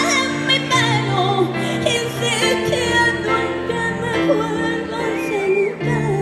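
Music: a singer with wide vibrato in an operatic style, over held instrumental chords that change about once a second.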